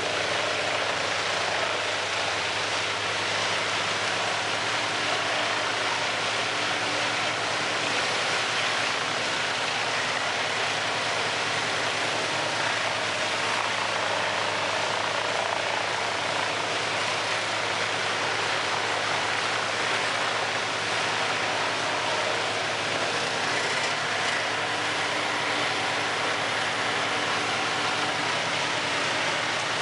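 Large industrial wood chipper running steadily, a constant engine drone under an even rush of noise that does not let up.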